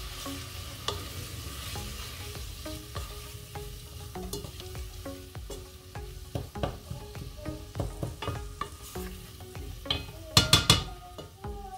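Diced onions and seasoning sizzling in a stainless steel pot while a wooden spoon stirs and scrapes them in short strokes. About ten seconds in, a few louder knocks come as the spoon is lifted and knocked against the pot.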